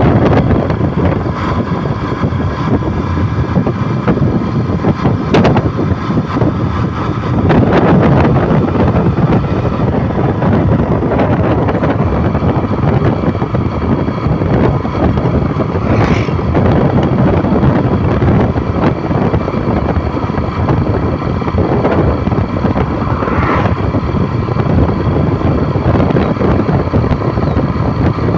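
Steady running noise of a vehicle, with wind on the microphone.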